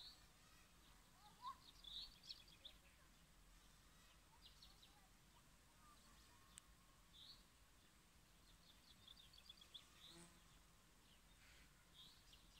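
Faint outdoor ambience with small birds chirping now and then: short high chirps and a few quick twittering runs, including one near the middle and a longer one a little before the end.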